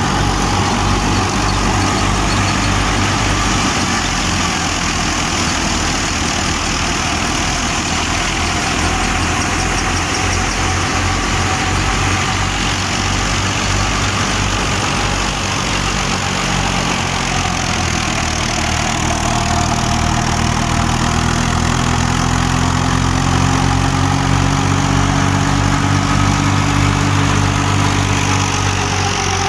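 A 1979 Fiat 480 tractor's diesel engine running steadily under load as it drives a wheat thresher. In the second half a higher hum rises slowly in pitch.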